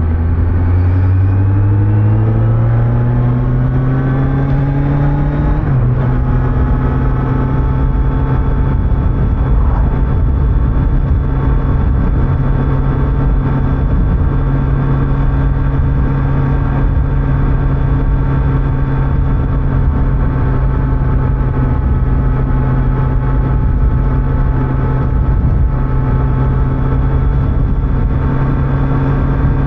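Kawasaki Z900's stock-exhaust inline-four engine pulling with rising pitch under acceleration, then dropping a little in pitch about six seconds in as it shifts up. It then cruises at a steady engine speed over road and wind rumble.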